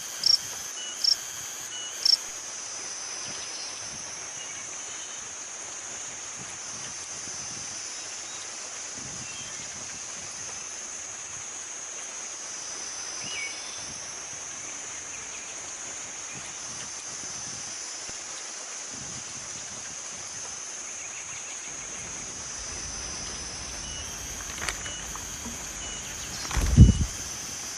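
Steady high-pitched insect chorus that slowly swells and fades. Short sharp chirps come about twice a second in the first two seconds and return near the end. One loud low thump falls about a second before the end.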